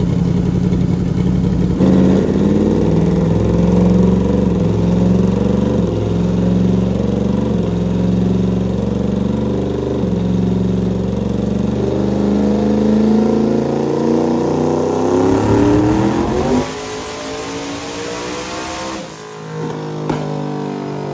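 Twin-turbo Ford Coyote 5.0 V8 making a wide-open-throttle pull on a chassis dyno, revs climbing steadily for about fifteen seconds to 8,500 RPM. Near the end the throttle closes suddenly and the engine winds down.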